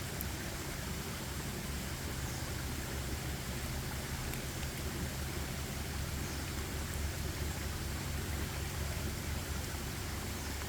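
Steady outdoor forest ambience: an even hiss with a low, fluttering rumble underneath and no distinct events.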